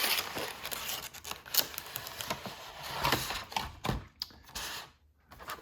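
A cardboard advent calendar box and its card packs being handled: rustling with scattered sharp clicks and taps, dying away to near silence shortly before the end.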